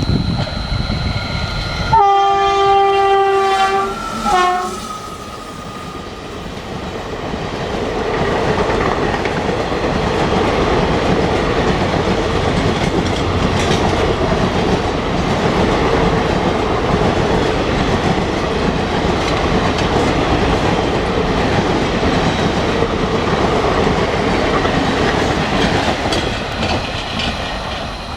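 A WAP-4 electric locomotive's horn sounds one long blast about two seconds in and a short blast right after it, warning people off the track. The train then passes close by, its wheels clattering over the rail joints for about twenty seconds before fading near the end.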